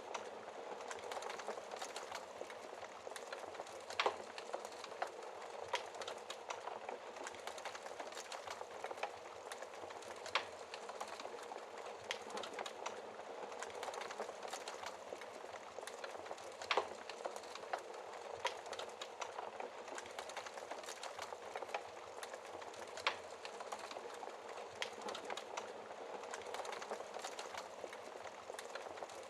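Wood fire burning in a fireplace, crackling steadily with a soft hiss and frequent small snaps, and a few sharper, louder pops every several seconds.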